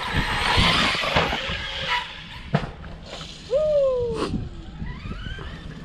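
Arrma RC truck running over dirt: a burst of tyre and motor noise at the start, a couple of sharp knocks, then the electric motor's whine sliding down and rising again as it slows and speeds up.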